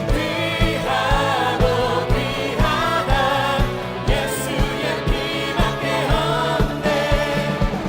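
Contemporary worship band playing a praise song with singers, over a steady drum beat.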